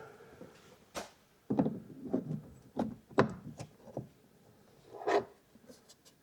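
Hands-on work noises while fitting a lock: a string of separate knocks and short scrapes, about seven or eight, the loudest about three seconds in.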